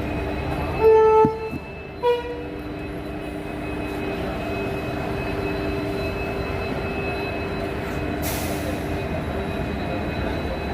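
Steady running noise of a moving passenger train, with the locomotive horn sounding two blasts: a half-second blast about a second in, then a short toot a second later.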